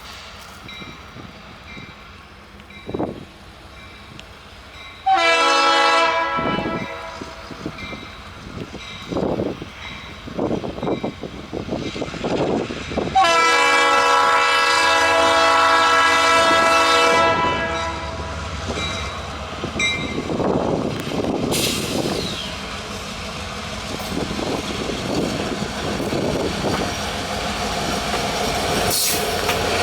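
Freight diesel locomotive's air horn sounding a short blast and then a long one of about four seconds, the warning given at a road crossing. Then the locomotives and freight cars roll past, with wheels clacking over the rail joints.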